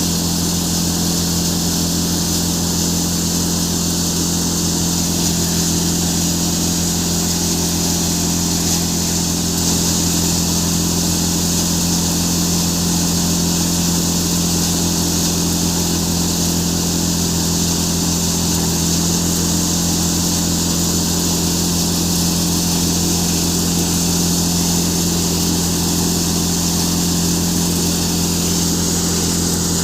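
A Farmtrac tractor's engine driving a threshing machine that is threshing chickpeas, running at a steady speed: a constant deep hum with an even rushing hiss above it, unchanging throughout.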